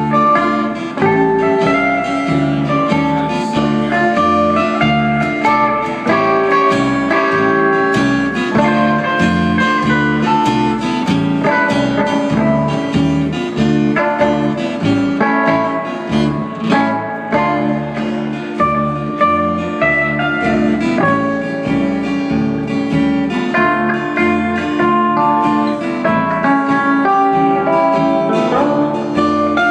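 A live country-blues band playing an instrumental passage of a song, guitar picking a melody over a steady beat, with no singing.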